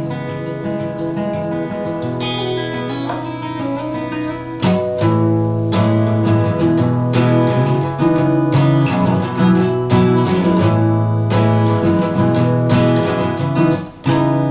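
Acoustic guitar music: ringing chords, with firm strums falling about every second or so from about four and a half seconds in.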